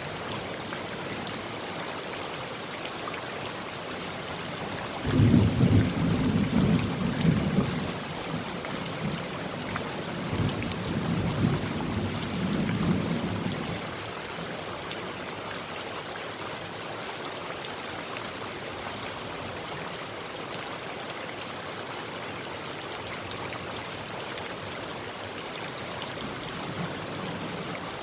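Heavy rain falling steadily on a tin roof. About five seconds in, a roll of thunder breaks suddenly and rumbles for about nine seconds before dying away.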